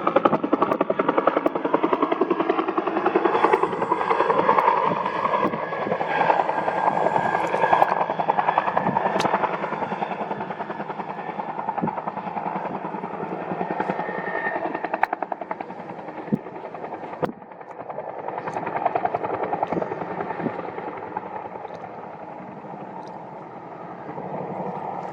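UH-1N Huey military helicopter flying, its two-bladed main rotor beating in a steady rapid rhythm over the engine noise. It is loudest in the first half and fades gradually as it moves away.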